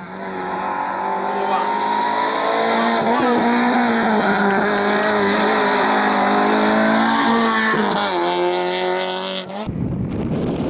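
Rally car engine running hard at high revs, its pitch dipping briefly and climbing again near the end. It cuts off abruptly and gives way to wind noise on the microphone.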